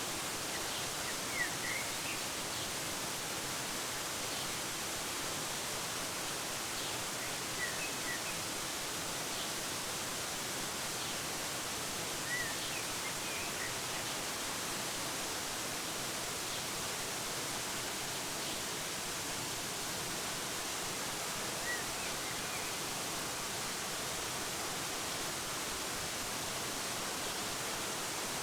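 Steady rushing hiss of a waterfall, with a few short, faint bird chirps scattered through it.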